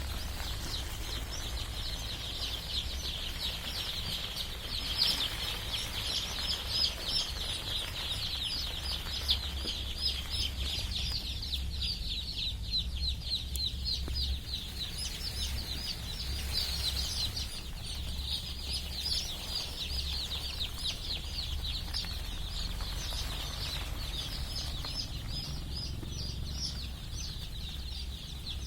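A brood of young Kadaknath chicks peeping continuously, many short high chirps overlapping, over a low steady hum.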